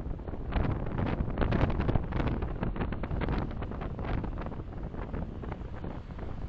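Car driving: a steady rush of road and wind noise, with uneven gusts buffeting the microphone.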